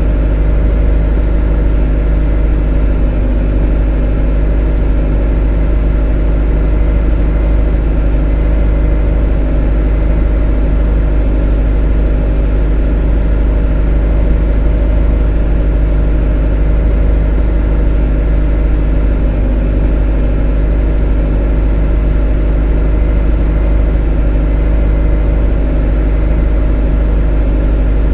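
A motor running steadily at constant speed: a deep low drone with a stack of steady higher tones over it, unchanging throughout.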